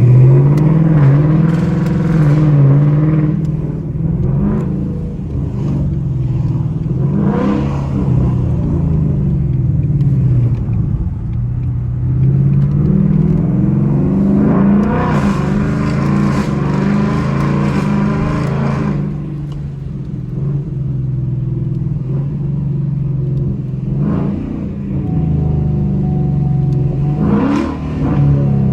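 The 5.0-litre Coyote V8 of a 2021 Mustang GT through an MBRP X-pipe and axle-back muffler, running steadily while driving. Near the middle it pulls hard for about seven seconds. Two shorter revs come briefly, near the end and about a quarter of the way in.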